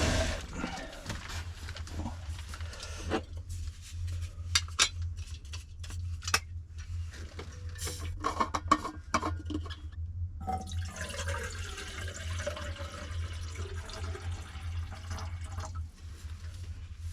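Coffee-making sounds: a run of sharp clicks and clinks of gear and cup, then liquid pouring for about five seconds, over a steady low hum.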